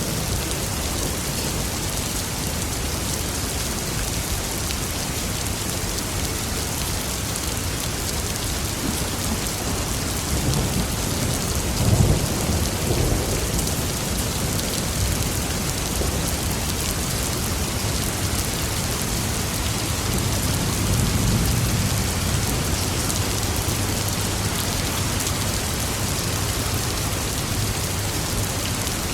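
Steady heavy rain falling, with thunder rumbling under it: one sharper peal about twelve seconds in and a longer, softer roll around twenty to twenty-three seconds in.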